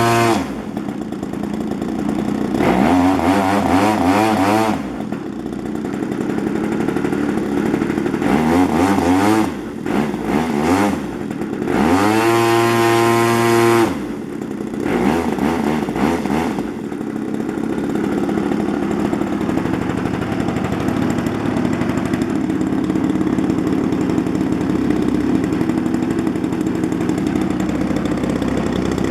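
Desert Aircraft DA-35 35cc two-stroke model airplane engine running, throttled up three times in short bursts with its pitch rising and falling back each time. After that it settles to a steady, lower idle.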